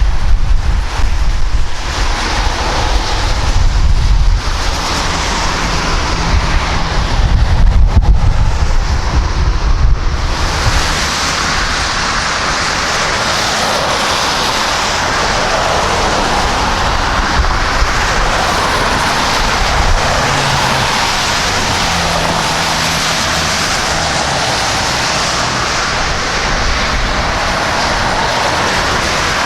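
Wind buffeting the microphone, then from about ten seconds in a jet airliner's engines give a steady roar whose tone slowly sweeps up and down.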